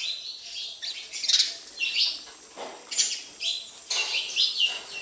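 Sparrows chirping, short high chirps coming quickly one after another, several birds together.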